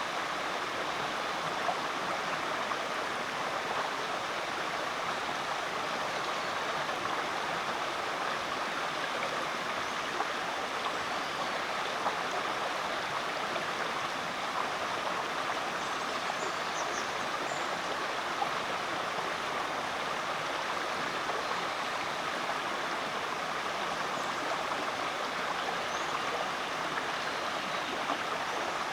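Rainforest creek flowing: a steady, even rush of running water.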